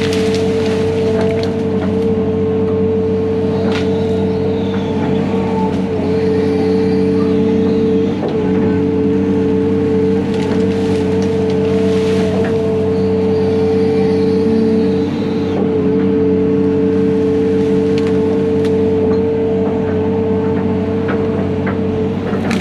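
Heavy diesel equipment running steadily under load, with a strong constant drone and a few sharp cracks scattered through.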